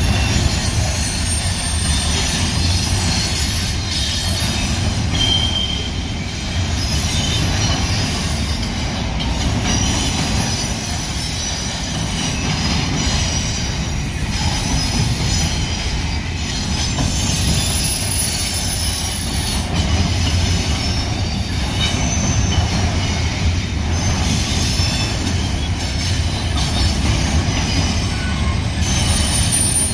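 Double-stack intermodal freight cars of a Union Pacific train rolling past at speed: a steady low rumble of steel wheels on rail, with short high-pitched wheel squeals coming and going.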